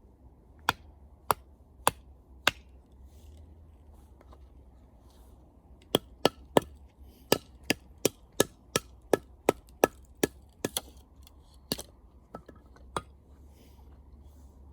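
Wood being chopped with short, sharp strikes. Four spaced strikes come first, then after a pause a quick, even run of about three strikes a second, thinning out to a few scattered ones near the end.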